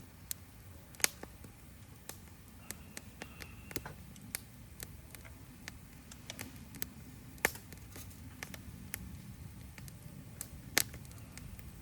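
Wood fire crackling, with irregular small snaps and three louder pops spread through, over a low steady rumble.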